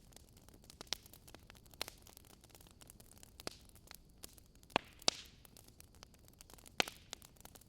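Wood fire in a fireplace crackling: irregular sharp pops over a low steady hiss, the loudest pair of pops about five seconds in.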